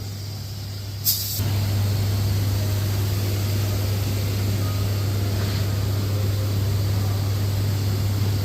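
A brief sharp hiss, then a steady electrical hum with a broad hiss starting about a second in, as of workshop equipment running.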